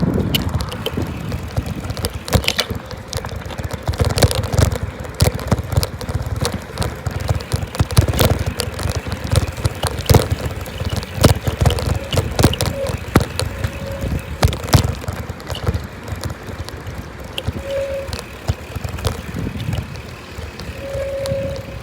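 Bicycle in motion: dense rattling and clicking from the bike over the road surface, over a low rumble of wind on the microphone. A few short squeaks come near the end.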